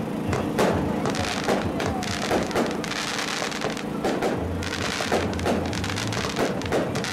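Fireworks display: repeated bangs of bursting shells, with dense crackling from glittering crackle stars about three and five seconds in.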